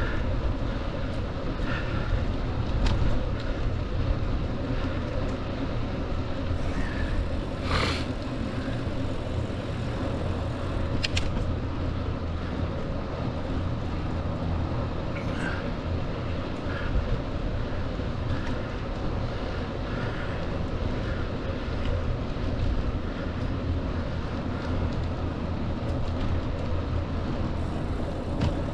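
Steady low wind rumble on the microphone of a moving bicycle, with a few brief clicks.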